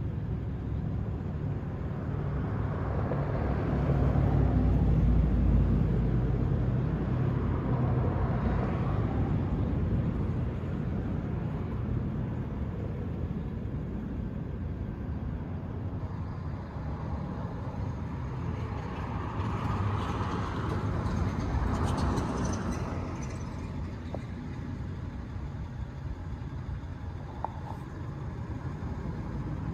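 Road vehicles passing, their engine and tyre noise swelling and fading twice: a low rumble peaking about five seconds in and another pass around twenty to twenty-three seconds in, over steady background traffic.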